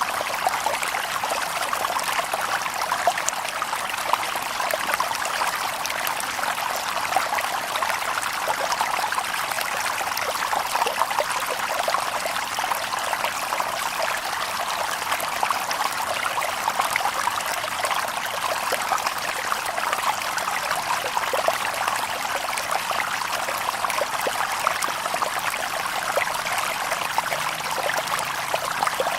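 A small stream babbling and splashing over stones, with many fine trickles and plops, steady throughout.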